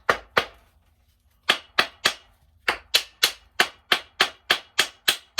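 Rapid metallic taps of a tool striking steel engine parts, about three a second. There are two taps at the start, a pause of about a second, then a steady run of about a dozen more, each sharp and briefly ringing.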